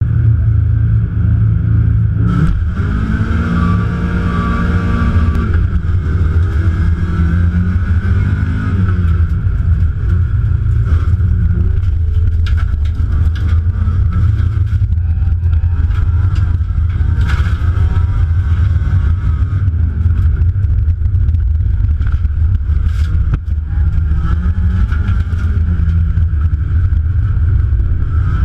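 Race car engine heard from inside the stripped cabin under hard acceleration, with a heavy low rumble and the pitch climbing and dropping back as it shifts up through the gears. Now and then a sharp knock rattles through the body.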